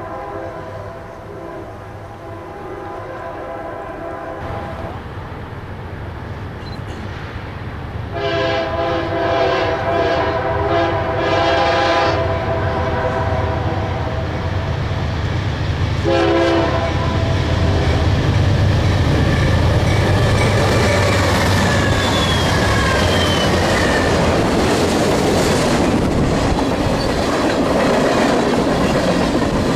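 Freight train approaching and passing close, its diesel locomotive horn sounding: one blast that ends about five seconds in, a longer one from about eight to twelve seconds, and a short one near sixteen seconds. After that the cars go by with a loud, steady rumble and wheels clattering over the rail joints.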